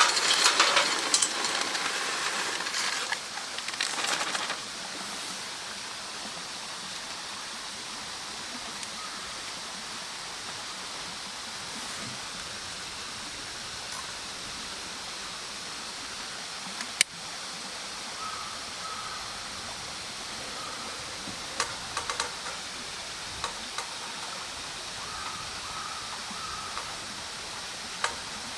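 Wood bonfire burning: loud crackling for the first few seconds, then a steady hiss with scattered small pops and one sharp crack past the middle.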